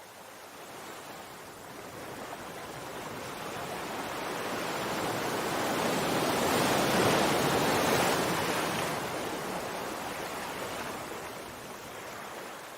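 Sea waves: one wave surging in, growing louder for about seven seconds to a peak, then washing back and fading.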